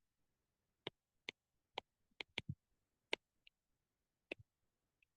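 A series of sharp, irregular clicks, about eight of them, with a couple of fainter ticks, against near silence.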